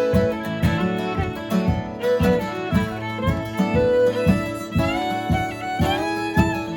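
A fiddle playing a folk dance tune over a strummed acoustic guitar keeping a steady rhythm.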